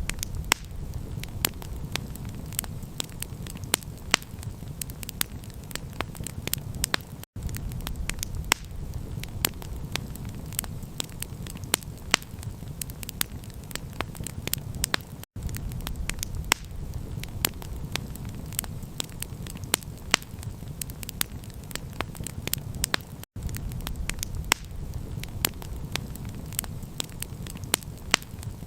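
Campfire crackling, with many sharp pops and snaps over a steady low rumble of the burning fire. The sound cuts out for an instant about every eight seconds.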